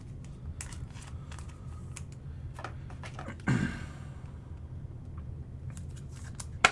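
Light clicks and taps of trading cards and plastic card holders being handled and set down on a table, with one short breathy sound from the host about halfway through.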